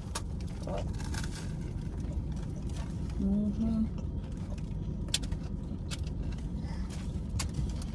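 Two people chewing mouthfuls of sub sandwich, with a short 'mm-hmm' a little past halfway and a few sharp clicks, over the steady low rumble of the car's idling engine.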